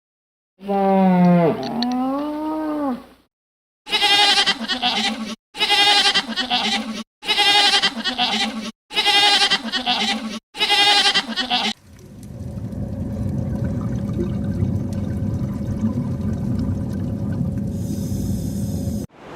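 One pitched animal call, then five repeated pitched animal calls, each about a second and a half long with a wavering pitch. After them comes about seven seconds of steady low rushing noise.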